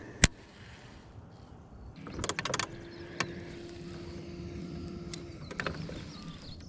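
Clicks and knocks of gear being handled on a fishing boat, with a small electric motor, likely the trolling motor, humming steadily for about three seconds in the middle.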